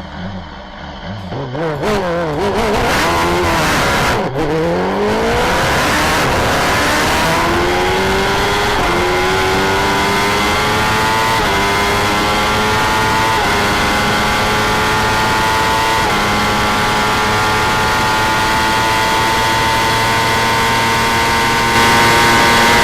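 A 1000 cc superbike engine accelerating flat out through the gears. The revs climb fast and drop briefly at each quick upshift, first every couple of seconds and then further apart, until the pitch rises only slowly and holds high as the bike nears top speed.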